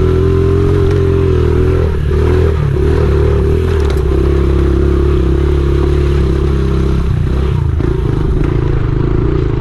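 Honda XR70R pit bike's small single-cylinder four-stroke engine running under way at a fairly steady pitch, dipping briefly a couple of times as the throttle changes, with a few short knocks.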